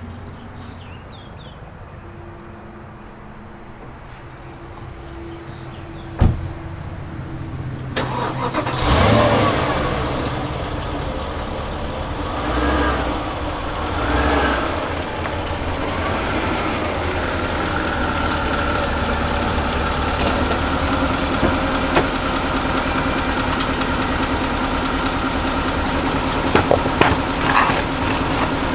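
Porsche Cayenne Turbo's twin-turbo V8 starting about nine seconds in, rising briefly twice, then settling into a steady idle. A single sharp knock comes a few seconds before the start, and a few clicks come near the end.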